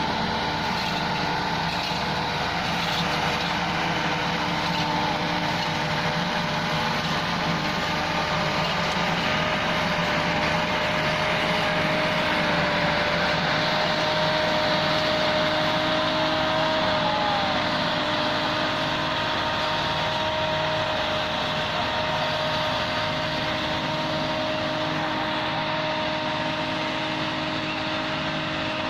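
Fiat 640 tractor's diesel engine running steadily.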